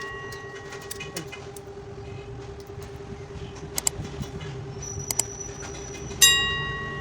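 A steady hum with scattered light clicks and taps, and about six seconds in a loud, bright ringing ding that starts sharply and fades over about a second.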